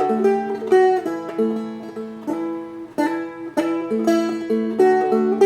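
Seagull Merlin, a small fretted strumstick-style instrument, being fingerpicked: a steady run of plucked notes, several a second, over ringing lower strings.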